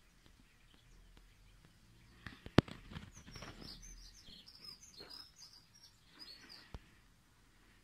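A run of short, high bird chirps lasting about three seconds. Just before it comes a single sharp knock, the loudest sound, and another click follows near the end.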